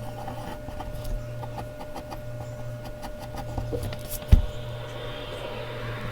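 Mechanical pencil scratching and ticking on Bristol paper over a steady low hum, with one sharp thump a little over four seconds in and a longer scratchy stroke near the end.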